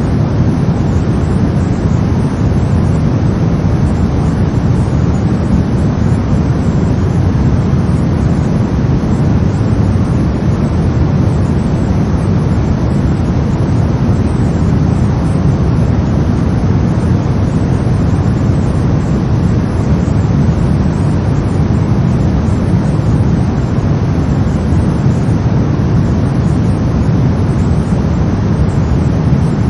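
Synthetic brown noise: a steady, deep rumbling hiss that stays unchanged.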